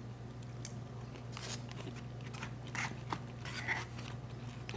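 Close-up chewing and biting of a mouthful of shrimp, with scattered soft clicks and crackles, some from a plastic fork working in a foam takeout box.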